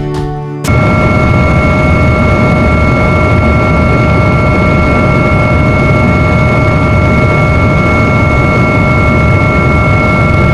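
A drone's motors and propellers whirring loudly and steadily, with a few constant high tones over a rushing noise, as heard on the drone's own microphone. It starts abruptly about a second in, as music cuts off.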